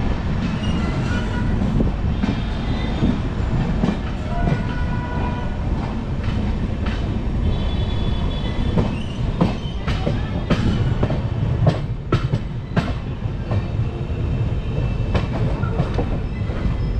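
Indian Railways passenger coach rolling into a station, heard from its open doorway: a steady rumble of wheels on track with thin squeals in the first half. A run of sharp clacks about nine to thirteen seconds in comes as the wheels cross rail joints and points.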